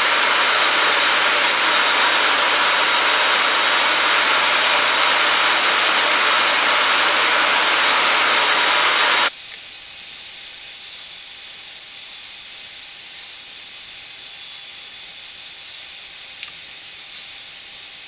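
Steady, loud whooshing of a workshop power machine or dust extraction running, which cuts off abruptly about nine seconds in, leaving a quieter steady hiss.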